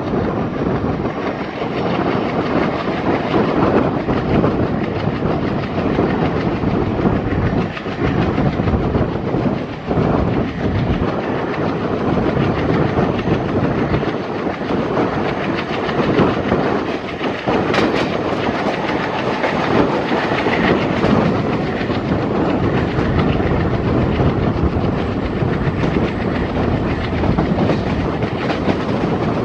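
Twin WDG-3A ALCo diesel locomotives chugging while hauling a passenger train, heard from the leading coach, with the coach's wheels clicking over the rail joints.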